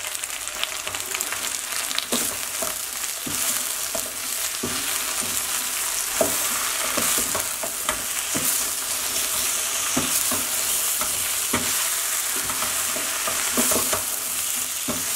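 Cut okra frying with onions and turmeric in a stainless steel pot, sizzling steadily, while a wooden spoon stirs it, knocking and scraping against the pot about once a second at irregular intervals.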